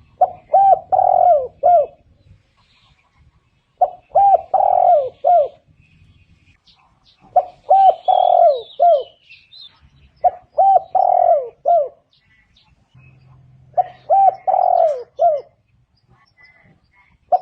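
Spotted dove cooing: five repeated multi-note phrases, each about a second and a half long, about every three and a half seconds. A few faint higher chirps from another bird come in about halfway through.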